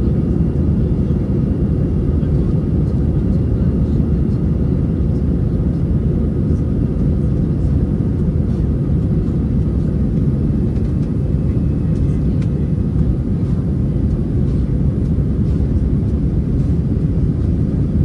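Airbus A320 cabin noise: a steady low rumble of the jet engines and airflow, heard from inside the passenger cabin, with a few faint high steady tones above it.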